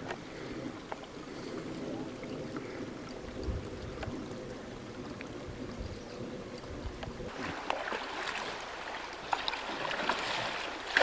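Water moving around a canoe on the water, with a louder rush of splashing water beginning about seven seconds in.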